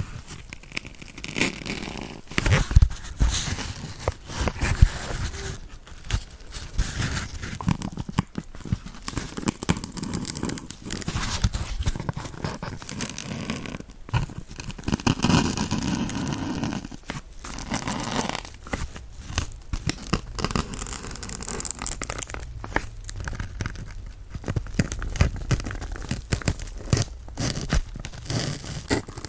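Kitchen dish sponge being pierced with needles and handled close to the microphone: irregular crackling, scratching and rustling with many short clicks.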